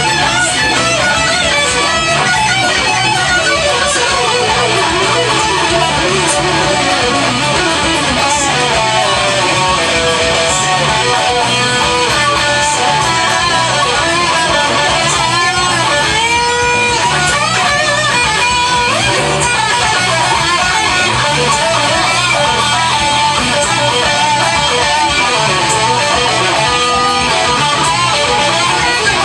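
Guitar played along with a rock song recording; bent notes can be heard.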